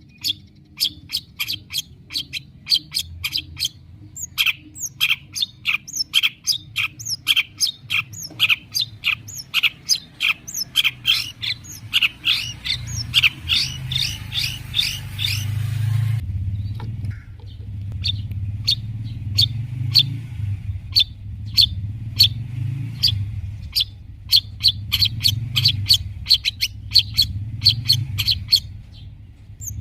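Long-tailed shrike (cendet) singing in full song: a rapid run of short, sharp chirping notes, several a second, with a brief pause about halfway through, over a low hum.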